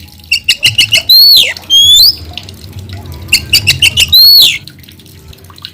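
Oriental magpie-robin (kacer) singing loudly in two similar phrases. Each phrase is a quick run of sharp chipping notes followed by loud slurred whistles, one falling and one rising.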